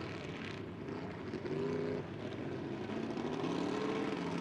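Ford 460 V8 in an '88 F-150 off-road race truck running hard, its pitch rising and falling as the revs change, with a dip about halfway through.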